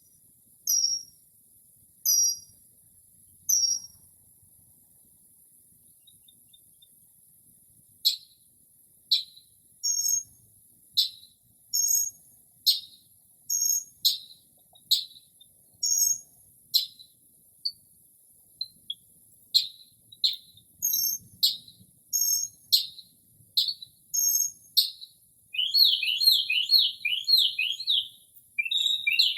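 Northern mockingbird singing at night, stringing together mimicked bird calls. Four short high notes over the first few seconds, a pause, then a long run of repeated downward-sweeping notes about one a second, breaking into a fast rapid series of notes near the end.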